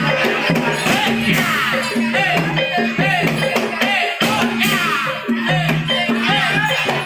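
Music accompanying a Javanese barongan dance: gamelan-style ensemble with frequent percussion strikes over held low tones and a wavering high melody on top.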